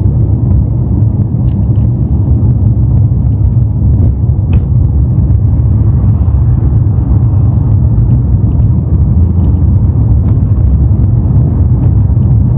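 BMW M5 driving along: a steady low rumble of engine and road noise.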